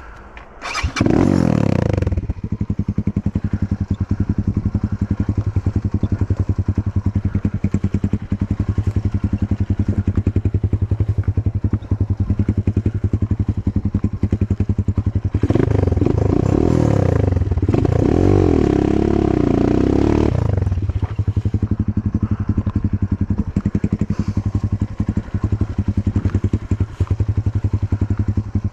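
Enduro motorcycle engine starting up with a quick blip of the throttle, then running at a fast idle. Partway through it is revved up and down for about five seconds before settling back to idle.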